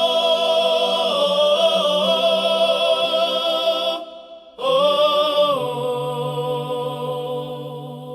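Music: long, held wordless sung notes with vibrato, one sustained phrase that breaks off about four seconds in, then a second held phrase.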